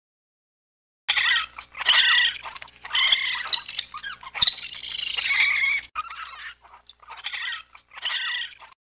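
Raccoon giving a run of high-pitched squealing calls with pitch that bends up and down, in several bouts with short gaps, starting about a second in.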